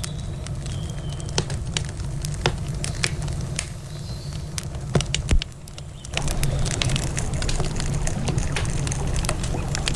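Wood campfire crackling, with many sharp pops scattered through over a steady low rumble. About six seconds in, the crackle turns louder and denser.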